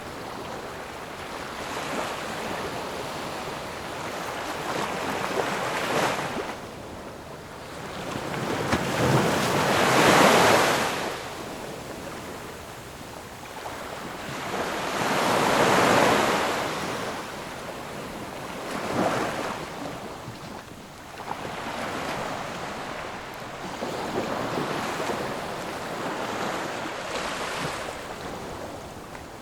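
Ocean waves breaking and washing on a shore, a hiss of surf that swells and falls, with two bigger waves crashing about a third and halfway through.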